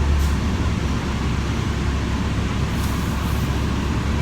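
Inside a moving city bus: steady low engine rumble and road noise, with two short high hisses, one about a quarter second in and a longer one around three seconds in.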